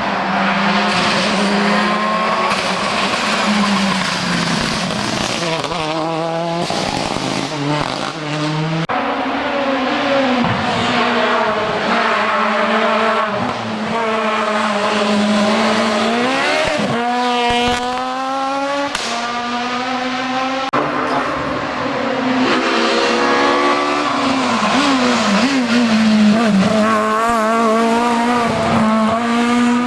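Rally cars driving hard on a special stage, one after another, their engines revving up and falling back through gear changes, with some tyre squeal.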